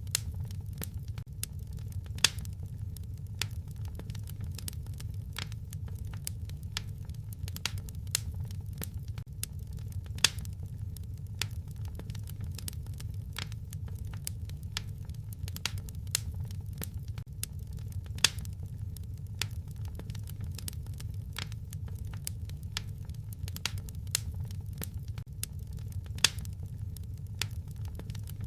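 Wood fire crackling: frequent small sharp pops and snaps over a steady low rumble, with a louder snap about every eight seconds.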